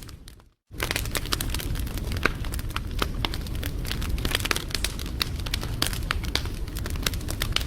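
Wood fire crackling, with many sharp pops and snaps over a low rumble of the flames. About half a second in it drops out to silence for a moment, then resumes.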